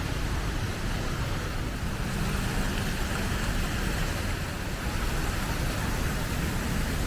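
Steady city traffic noise: a continuous hum of road vehicles with no single event standing out.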